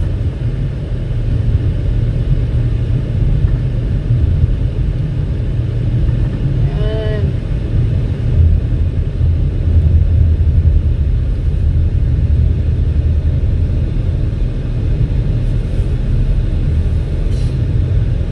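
Steady low road and engine rumble inside the cabin of a 2019 Toyota RAV4 driving on a slippery winter road, with a brief wavering tone about seven seconds in.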